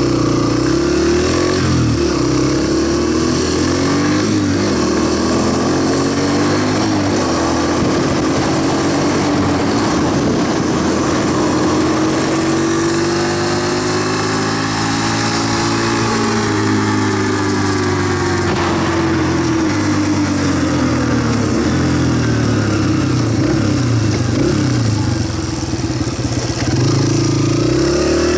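Single-cylinder dirt bike engine accelerating up through the gears from first, its revs climbing and dropping with each shift. Heavy wind noise on the microphone, really windy sounding.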